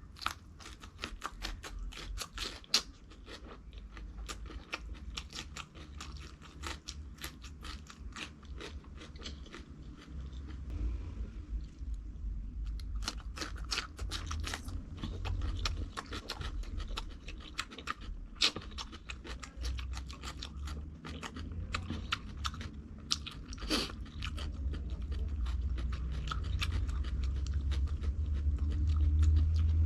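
Close-up crunching and chewing of crispy fried food: a dense run of sharp crunches, briefly pausing about a third of the way in, then continuing.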